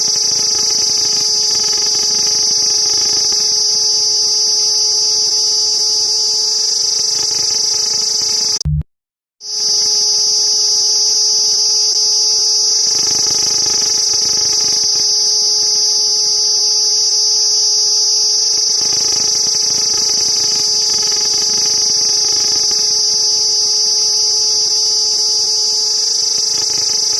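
Cicada song: a loud, continuous high-pitched buzz that breaks off for under a second about nine seconds in, then resumes.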